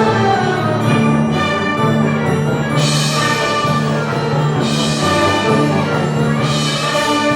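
Community concert band playing live: brass and winds holding sustained chords over a low bass line, with bright accents recurring roughly every two seconds.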